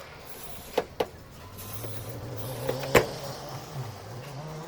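A small motor hums with a wavering pitch, with two sharp clicks about a second in and a louder knock about three seconds in.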